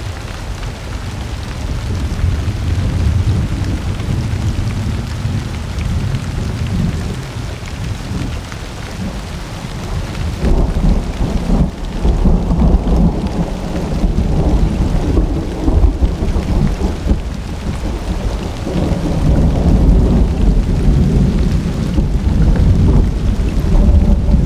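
Steady rain falling with rolling thunder. The deep rumble grows louder about ten seconds in and swells again near the end.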